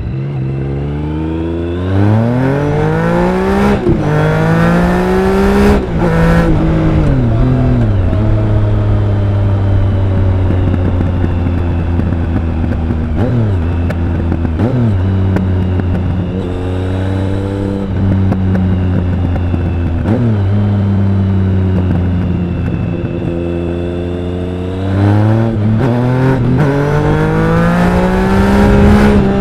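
Triumph Speed Triple 1050's inline three-cylinder engine and exhaust under way. It pulls hard through the gears at the start, the note rising and then dropping at each shift. It holds at fairly steady revs through the middle with a few brief dips, then climbs through the revs again near the end.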